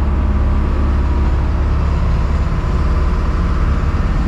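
An engine running steadily, heard as a loud, constant low drone, with a fainter steady tone above it that fades out a little over a second in.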